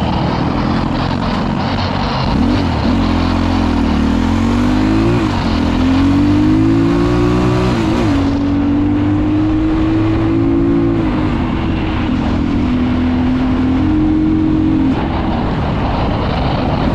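Dirt bike engine running under way, its revs climbing and dropping back several times as it pulls through the gears, then holding a steadier tone at cruising speed in the second half.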